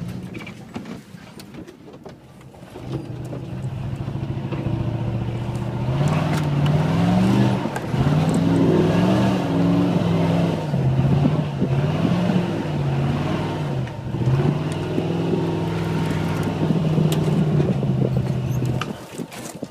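Dodge Ram 1500 pickup's engine revving hard as the truck is driven through deep mud ruts, its pitch climbing and falling again and again, then dropping away near the end. Heard from the open truck bed.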